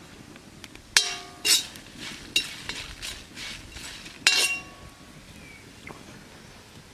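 Metal cooking vessels and utensils clinking: a few sharp clinks, some ringing briefly, with softer scraping between them, the loudest about a second in and again near the middle.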